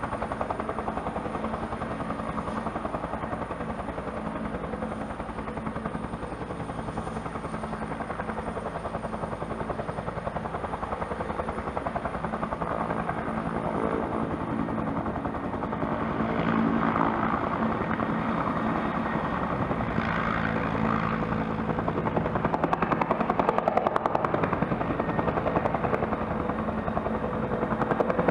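Helicopter running with a rapid, even rotor chop over a steady turbine sound, growing louder in the second half.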